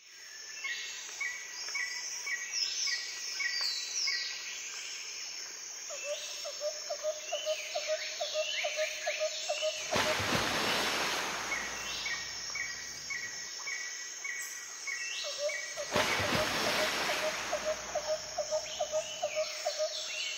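Birds calling in forest: runs of short, evenly repeated chirps and quicker slurred whistles. A low pulsing trill comes in two stretches, and a rush of noise starts about ten seconds in and again about sixteen seconds in.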